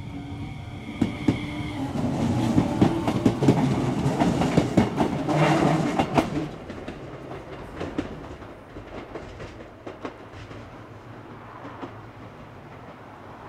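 Enshu Railway electric trains running, their wheels clattering over rail joints, loudest in the first half and fading away after about six seconds. A level-crossing alarm rings for the first couple of seconds.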